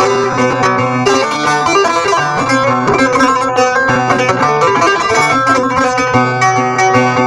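Bağlama (saz), the Turkish long-necked lute, played as an improvisation: quick runs of plucked notes over steadily ringing lower notes.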